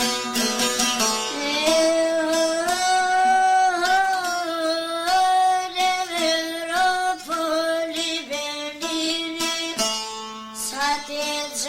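A young girl singing an Albanian folk song in long, held, ornamented notes over a plucked string instrument. The instrument plays alone for about the first second and again briefly near the end, before the voice comes back in.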